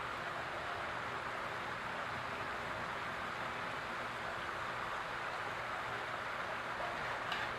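Backyard garden fountain's water splashing and trickling steadily, with one short sharp sound near the end.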